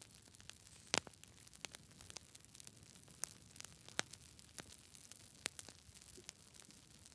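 Campfire crackling: a faint steady hiss with irregular sharp pops and snaps, the loudest at about one, four and five and a half seconds in.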